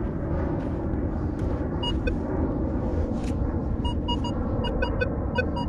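Minelab Vanquish 440 metal detector sounding short, repeated target beeps as its coil is swept back and forth over buried metal. The beeps start sparsely about two seconds in and come several a second near the end, over a steady low rumble.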